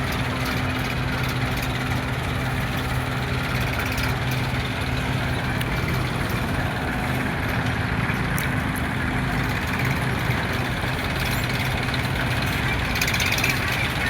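Tractor's diesel engine running steadily at idle, a constant low hum.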